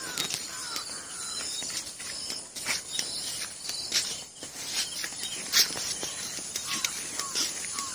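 Outdoor ambience of insects chirping steadily, with short bird chirps and scattered sharp clicks or rustles.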